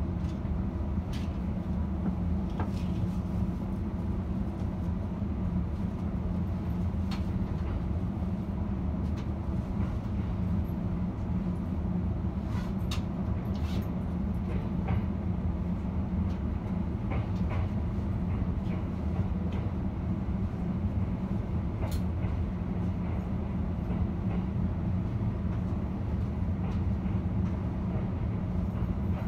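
E531 series electric commuter train rolling along a station platform, heard from inside the carriage: a steady low running rumble with scattered sharp clicks from the running gear.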